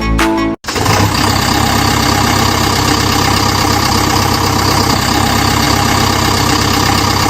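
A heavy engine idling steadily with a fast, even rumble. It starts just under a second in, after a snatch of music cuts off.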